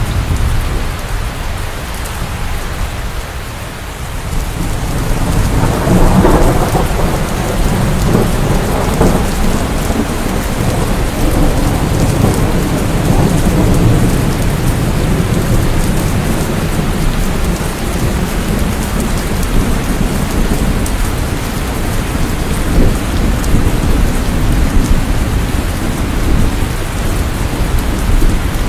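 Steady heavy rain with rolling thunder; the thunder's rumble dips briefly, then swells again about six seconds in and keeps rolling under the rain.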